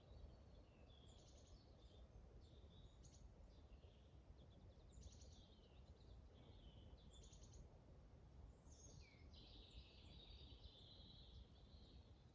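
Faint forest birdsong: short high chirping phrases every second or two, then a longer run of song from about nine seconds in, over a steady low rumble.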